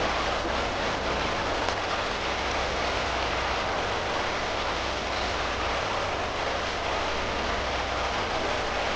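Steady rushing noise of water, cutting in suddenly, with a low rumble underneath.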